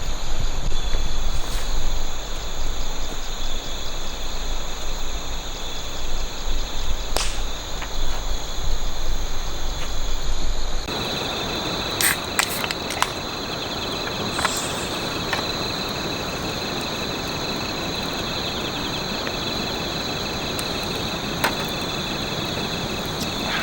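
Crickets chirping steadily in a high, continuous chorus. For the first part, gusts of wind rumble on the microphone over them; about eleven seconds in the rumble stops abruptly, leaving the insect chorus clear, with a few sharp clicks.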